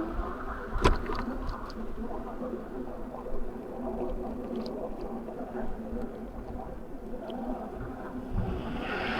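E-bike riding along a road: a steady hum with rumbling tyre and wind noise, and a sharp click about a second in followed by a few lighter ticks. The noise swells near the end.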